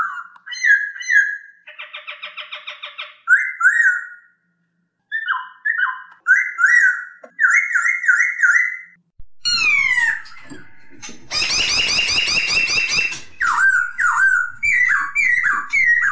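Poksay Hongkong, a laughingthrush, singing: phrases of loud, clear whistled notes that slur downward, a rapid chattering rattle about two seconds in, and a harsh rasping call from about eleven to thirteen seconds in.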